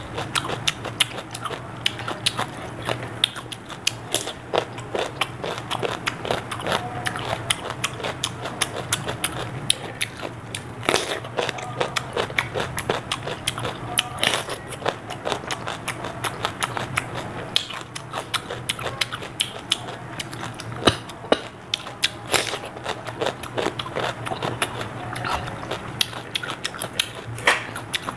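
Crunching and chewing of raw whole cucumber: dense wet crackling as the flesh is munched, broken by several louder crunching bites spread through the stretch.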